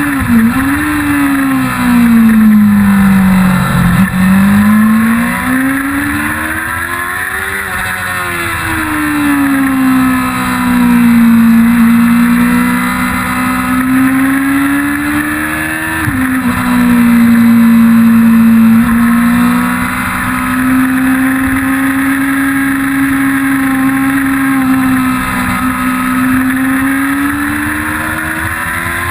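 Onboard sound of a 1999 Yamaha YZF-R6 (5EB) 600 cc inline-four at speed on track, the engine note climbing and falling as it is ridden through the corners. The pitch drops suddenly at upshifts about a second in and again about halfway through, and sinks low under braking around four seconds in.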